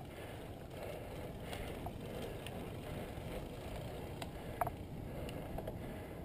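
Faint steady background noise with a few light, scattered clicks; the sound cuts off abruptly at the end.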